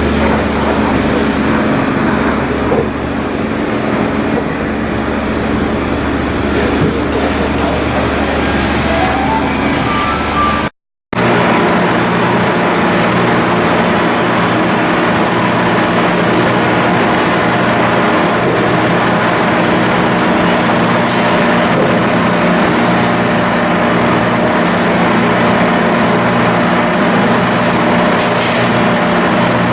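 Marine diesel engine running steadily, a loud constant drone with a fixed pitch. About 11 seconds in the sound cuts out briefly and resumes as a different steady engine drone at another pitch.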